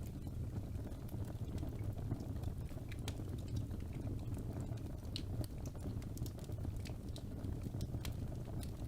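Wood fire burning in a fireplace: a steady low rumble of flames with scattered crackles and pops from the logs.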